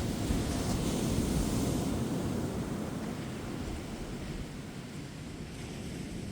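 Ocean surf breaking and washing up a beach, a wave swelling over the first couple of seconds and then easing off.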